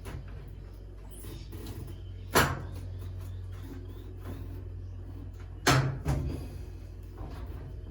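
Hard plastic knocks and clunks from a washing machine's top panel being wriggled forward on its hinge: one sharp knock a couple of seconds in, then two more in quick succession later.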